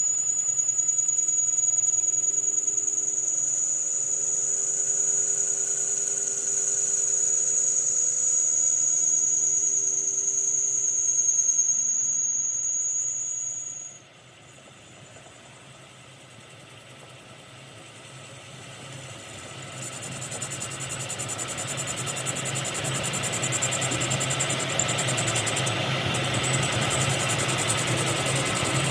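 A steady, high-pitched mechanical whine that cuts off sharply about halfway through. After a short lull, a low machine sound like an engine running builds up and continues.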